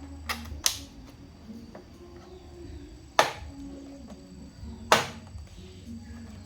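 Sharp clicks or knocks: two close together near the start, then one about three seconds in and another near five seconds, over quiet background music.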